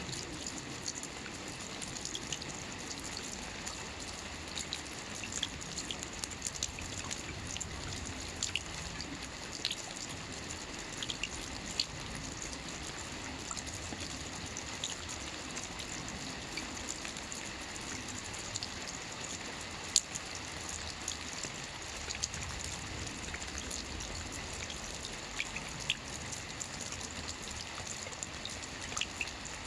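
Steady rain falling on a lake's surface, an even hiss with scattered distinct drop plinks, one louder about two thirds of the way through.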